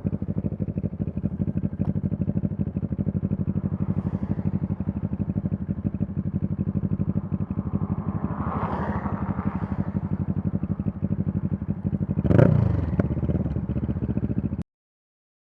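CFMoto 650NK's parallel-twin engine running steadily under way, with a brief louder swell and a quick rise and fall in pitch about twelve seconds in. The sound cuts off suddenly near the end.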